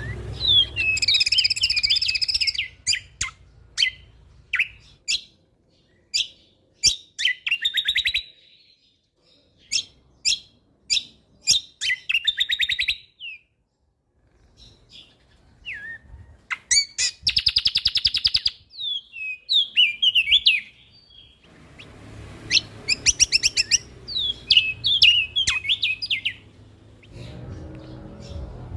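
Kecial kombok (cucak kombo) songbird singing in bursts of rapid trills and sharp chirps, with short pauses between phrases and a near-quiet gap midway. A faint low background rumble sits under the song at the start and in the last part.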